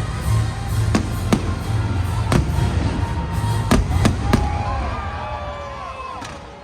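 Fireworks going off in a string of sharp bangs, about seven in all, over loud music with a heavy low beat; the bangs and music die away in the last two seconds.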